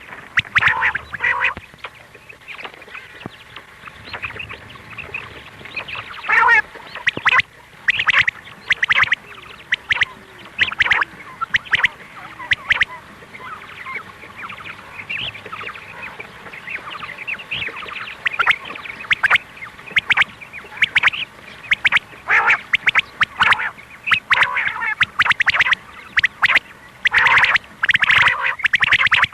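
Female quail (batair) calls, many short calls in quick, irregular runs, used as a lure call for quail hunting.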